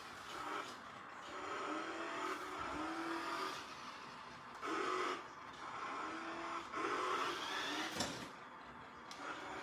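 Remote-control toy monster truck's electric motor whining in repeated short spurts as it is driven, some of them rising in pitch, with a sharp knock about eight seconds in.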